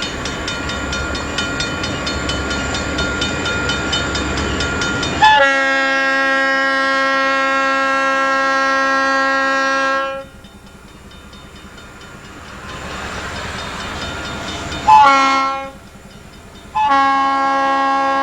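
A diesel locomotive's air horn sounding a chord of several notes: a long blast, then a short one and another long one, the pattern of a grade-crossing signal. Before the horn, the train's rumble and a regular clicking of wheels on rail joints.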